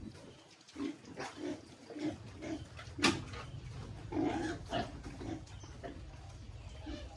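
Pigs grunting over and over in short, low grunts, with one sharp click about three seconds in.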